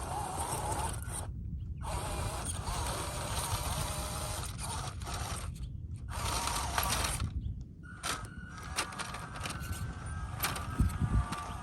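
A small RC crawler's 370 brushed motor and single-speed metal gearbox whirring as it drives, with a wavering gear whine. The sound cuts out briefly a few times, and there are scattered clicks and knocks toward the end.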